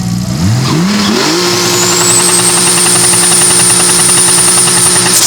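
Turbocharged BMW E36 328i inline-six petrol engine revving up from a lower speed about half a second in and holding steady high revs, with the turbo's high whistle rising and then held above the engine note. The revs drop suddenly right at the end.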